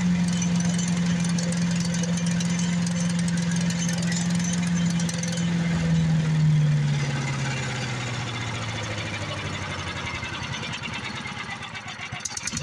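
Predator single-cylinder gas engine on a wood chipper running fast, then slowing about six seconds in and sagging further near the end, an uneven speed which the owners suspect is down to bad gas.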